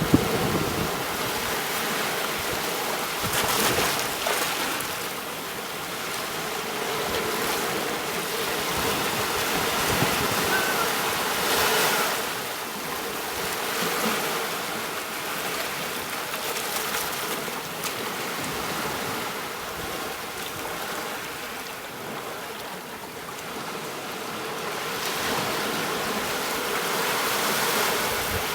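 Ocean surf washing onto a beach, the noise of the waves swelling and falling away every few seconds, with the strongest surges about 3 seconds in, around 10 to 12 seconds, and near the end.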